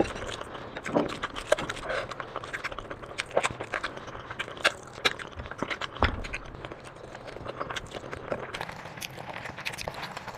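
Close-miked eating: chewing with irregular wet clicks and smacks, several to the second.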